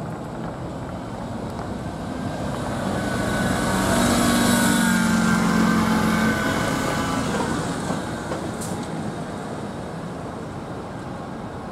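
A passing vehicle: a steady rumble swells to a peak for a few seconds in the middle, with a hum of steady tones, then fades away.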